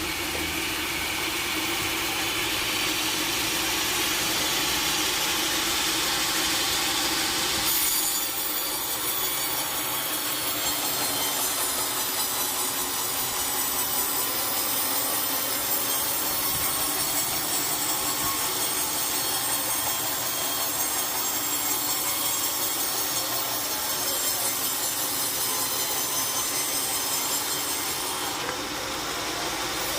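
Sawmill saw running steadily through a large wooden log, a continuous high whine over the noise of the cut, changing in tone about eight seconds in.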